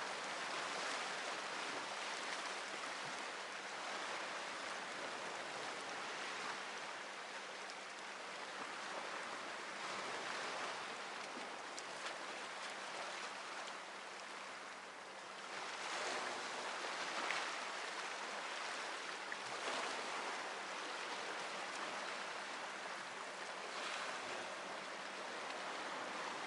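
Sea waves washing on the shore: a continuous rushing wash that swells and eases, with a louder surge of surf a little past halfway.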